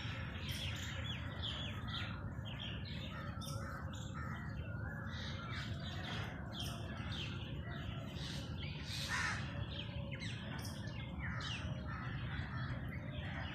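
Many birds calling at once, short calls overlapping throughout, with one louder call about nine seconds in, over a steady low rumble.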